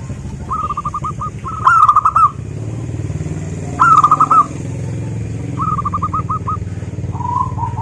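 Zebra doves singing: short rapid trilled cooing phrases repeated about five times, the loudest about two and four seconds in. A steady low rumble runs underneath.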